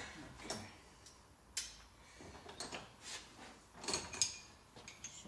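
Sparse light metallic clicks and knocks of hand tools and fasteners being handled during engine assembly, with a couple of sharper clicks about four seconds in.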